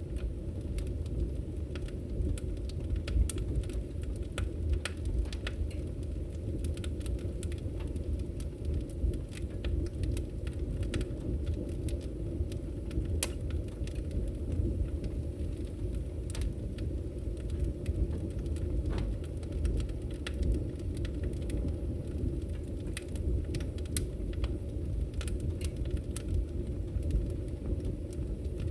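Campfire burning: a steady low rush of flames with frequent, irregular sharp crackles and pops throughout.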